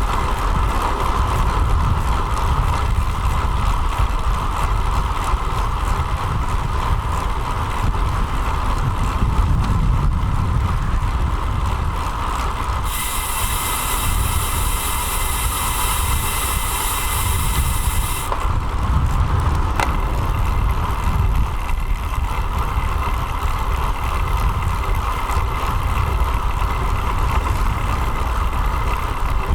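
Steady wind and road noise from a road bike in motion, picked up by a bike-mounted action camera, with a low rumble throughout. About 13 seconds in, a bright hiss joins for about five seconds, then stops.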